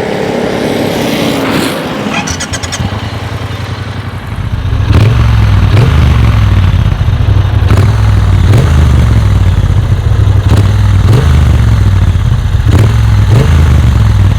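Triumph Bonneville T120's parallel-twin engine, decatted with a Motone Customs X-pipe and Vance & Hines pea-shooter exhausts, starting about four seconds in and then running loud and deep.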